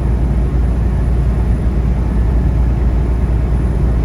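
Steady low drone inside a semi truck's cab while driving at road speed: the diesel engine and tyre and road noise.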